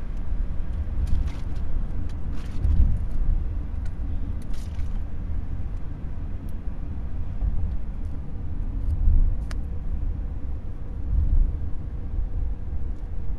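Steady low rumble of a car driving, road and wind noise heard from inside the vehicle, with a few faint clicks.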